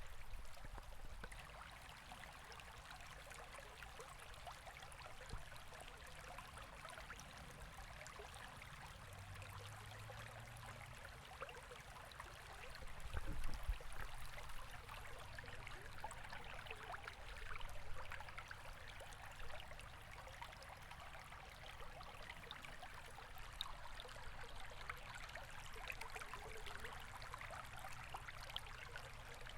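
River water flowing steadily, an even rushing sound without pause. A single low thump comes about halfway through.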